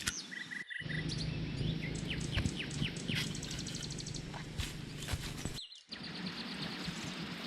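Birds chirping and calling in short notes and quick trills over a steady outdoor hiss, with a few faint knocks. The sound cuts out briefly twice.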